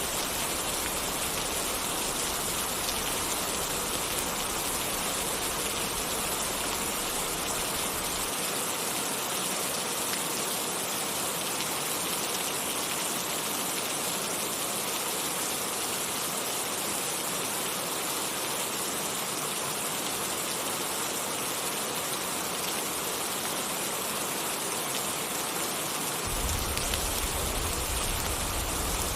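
Steady rain falling, an even hiss with no single drops standing out. A low rumble underneath drops out about eight seconds in and returns near the end.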